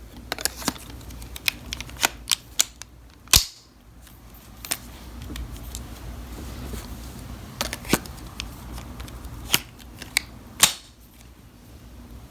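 Hard plastic clicks and knocks of a cordless spin scrubber's handle, extension handle and brush head being handled and snapped together, with a sharper snap about three and a half seconds in and another near the end.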